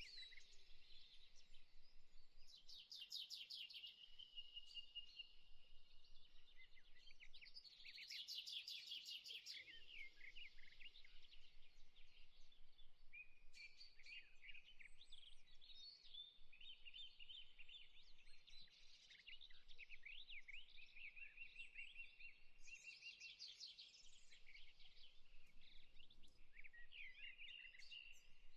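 Faint birdsong ambience: several small birds chirping, whistling and giving fast rattling trills, overlapping throughout, over a soft steady background hiss.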